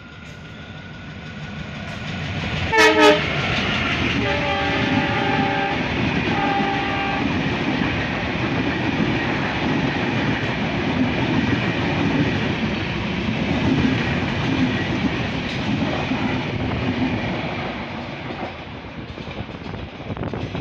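A WDM-3A diesel locomotive sounds its horn as it approaches: two short blasts about three seconds in, then two longer blasts. The passenger train then rolls past with a steady rumble of wheels on rail that fades near the end as it moves away.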